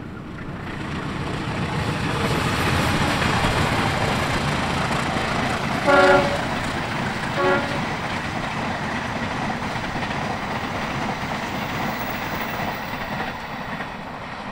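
A diesel-electric locomotive hauling a passenger train passes at speed, its engine and rolling wheels swelling up over the first two seconds and then running steadily. It sounds two short horn blasts about six seconds in, a second and a half apart, the first louder.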